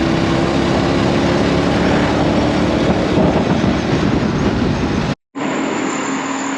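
Motorbike riding at speed: a steady engine drone under heavy wind and road noise. It cuts off abruptly about five seconds in, giving way to a quieter steady hum.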